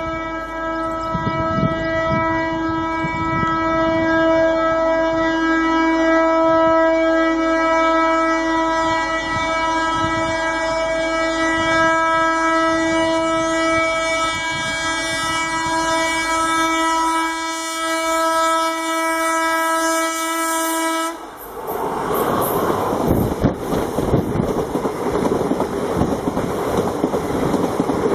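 Indian Railways electric locomotive horn sounding one continuous note as the express approaches. About three-quarters of the way through, the horn stops abruptly and the train rushes past at speed, with rapid wheel clatter over the rail joints.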